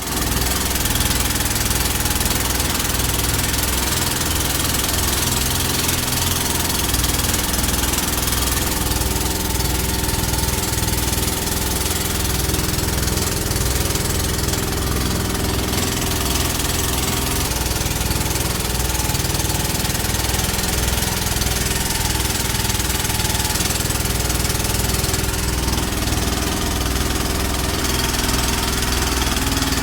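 A boat's engine running steadily, with a constant low drone and a hiss over it.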